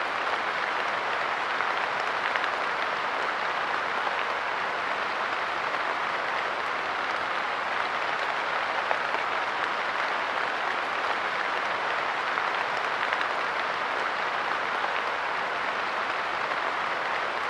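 Steady light rain falling on a park bench, an even patter of many small drops.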